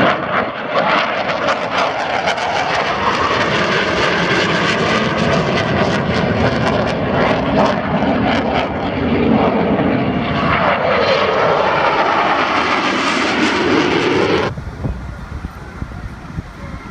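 Blue Angels F/A-18 Hornet jets passing low overhead: a loud jet-engine roar that sweeps and phases in pitch as they go by. It drops away abruptly about fourteen and a half seconds in.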